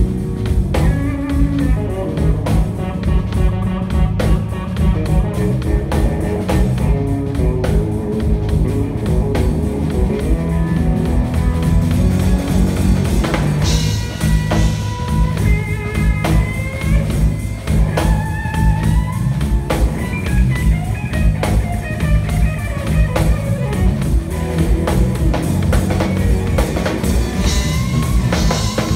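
Live instrumental band jam with electric guitar playing lead lines over a drum kit. In the second half the guitar bends notes.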